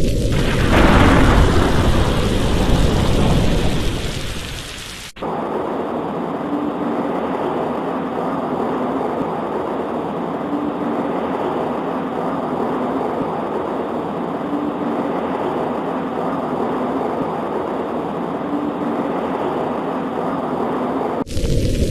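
A thunderclap about a second in, over rain, rumbling away over several seconds. Then the sound cuts abruptly to a steady wash of rain against a window, until a second abrupt cut near the end.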